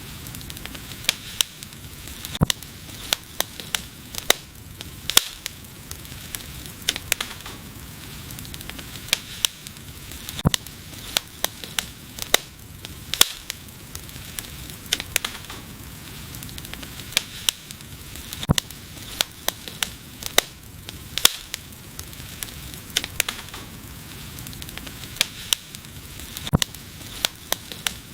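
Wood fire burning, with irregular sharp crackles and pops, several a second, over a steady low hiss and rumble of the flames.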